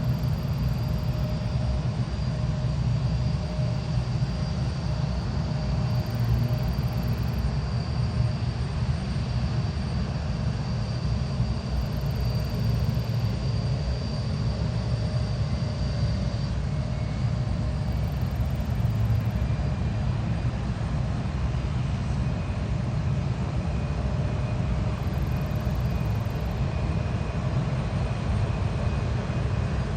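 Jet aircraft engines running: a steady low rumble with a thin, steady whine. The high whine fades about halfway through as a lower one faintly takes over.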